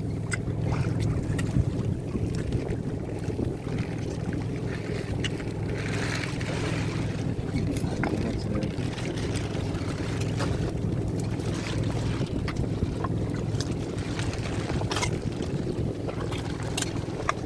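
A fishing boat's motor running with a steady hum, with scattered light clicks and knocks on top.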